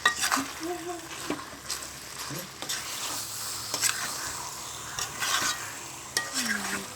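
Chicken pieces sizzling in frying curry masala in a cheenachatti wok while a spoon stirs them, with the steady sizzle broken by frequent scrapes and clicks of the spoon against the pan.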